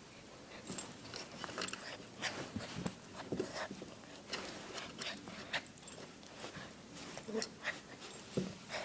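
Dog chewing and biting at a chew toy: irregular clicks and crunches, with a few short grunting sounds.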